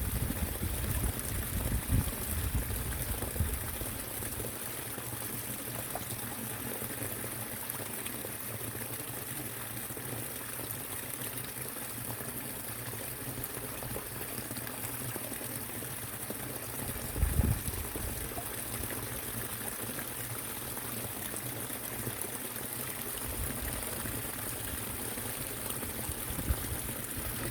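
Steady rush of stream water pouring over a small weir, with a few brief low bumps, the loudest about seventeen seconds in.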